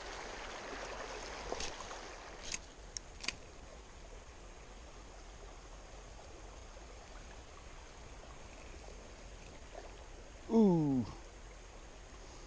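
Shallow creek water running over rocks, a steady faint rush, with a few sharp clicks about two to three seconds in. A man exclaims "ooh" near the end.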